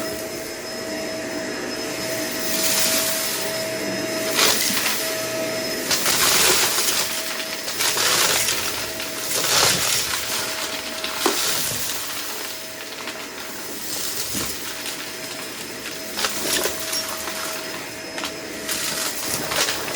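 Vacuum cleaner running with a steady whine, picking up a dry mess: the hiss swells in surges, with scattered sharp clicks and rattles as debris is sucked through.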